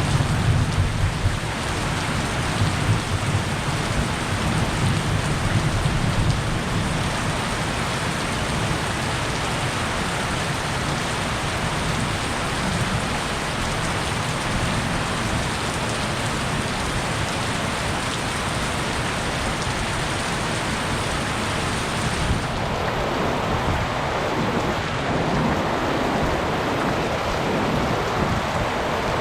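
Heavy rain pouring steadily, with low rumbles of thunder in the first several seconds.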